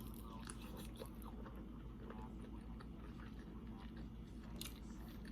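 A person chewing food, with faint wet mouth sounds and a few small clicks.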